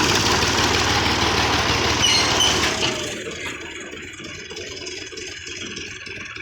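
Massey Ferguson 385 tractor's diesel engine running loud, then dropping to a noticeably quieter running level about three seconds in.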